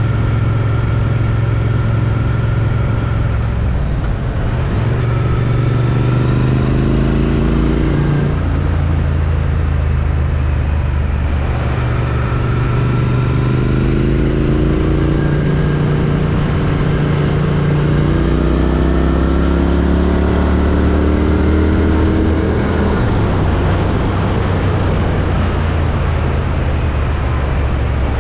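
Triumph Street Twin's 900 cc parallel-twin engine through its stock exhaust while riding. It pulls up in revs three times with the pitch rising, and each time drops back at a gear change, over a steady rush of noise.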